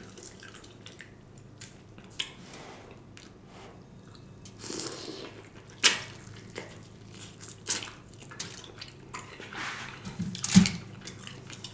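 A person chewing and biting into smoked turkey leg meat: wet mouth sounds with irregular sharp smacks and clicks.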